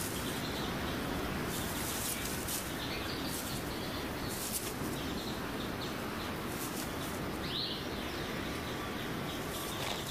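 Steady forest ambience with short, high bird chirps and ticks scattered throughout, and one sweeping bird call about seven and a half seconds in.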